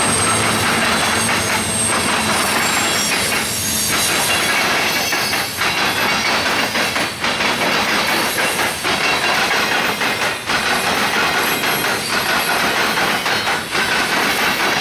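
Freight train cars rolling past, their steel wheels clicking over rail joints in a steady run of knocks, which become sharper about five seconds in, over a continuous rumble and hiss.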